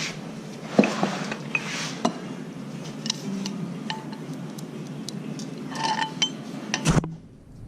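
Light metal clinks and taps of steel parts and tools being handled during hand assembly of an excavator's linkage pins and spacers: a few scattered knocks, then a quick flurry of clinks near the end.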